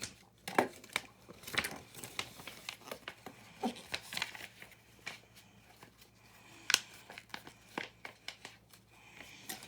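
Small plastic building bricks being handled and rummaged through: irregular sharp clicks and rattles with some rustling, the loudest clicks about half a second in and just before 7 seconds.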